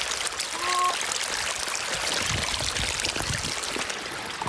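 River water flowing in a steady rushing hiss, with a brief pitched call just under a second in.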